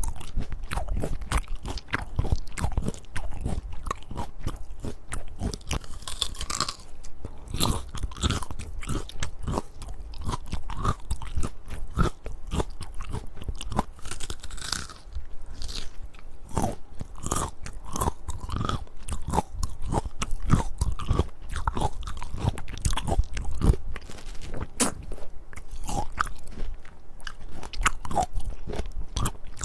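Close-miked eating of crisp peach: crunchy bites and continuous chewing, with louder crackling bites about six and fourteen seconds in.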